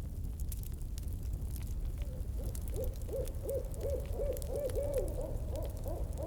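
Campfire crackling over a low steady rumble. From about two seconds in, an owl calls a rapid run of short hoots, about three a second.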